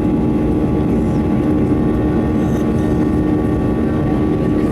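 Engines of a Ryanair Boeing 737-800, twin CFM56-7B turbofans, running steadily, heard from inside the cabin as a loud, even noise with a steady hum.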